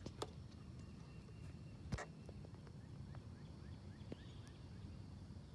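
Quiet outdoor ambience with a faint run of short, quickly repeated bird chirps in the distance from about two seconds in, and a few sharp clicks, the loudest about two seconds in.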